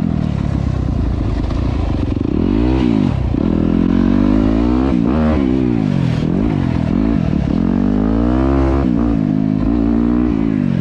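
Dirt bike engine being ridden, revving up and dropping back again and again, its pitch rising and falling every second or so.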